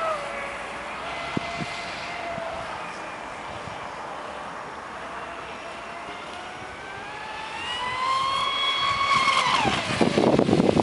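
Traxxas Spartan radio-controlled speedboat's brushless electric motor whining as the boat runs. The whine fades, then rises in pitch and grows louder from about seven seconds in. Near the end its pitch drops sharply and a rush of water and wind noise comes in.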